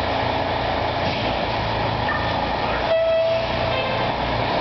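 Fire apparatus running with a steady rumble, and a short air horn blast about three seconds in.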